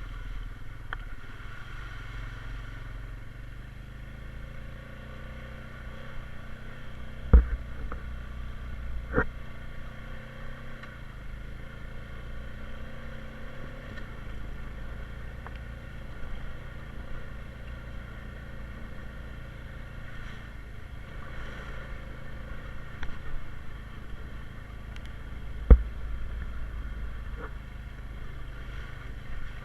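Honda Rubicon 520 ATV's single-cylinder engine running steadily under way, with a few sharp knocks: two about a quarter of the way in and a loud one near the end.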